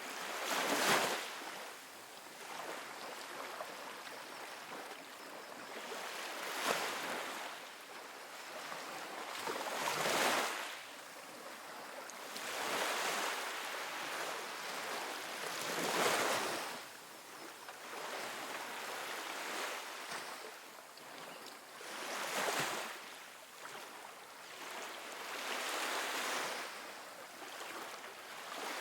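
Calm ocean waves breaking and washing up on a sandy beach, a surge of surf every few seconds over a steady hiss.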